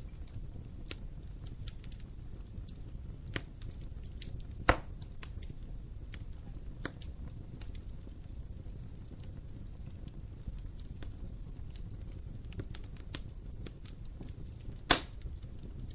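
Wood fire burning in a fireplace: a steady low rumble with constant small crackles, and two loud sharp pops, one about five seconds in and one near the end.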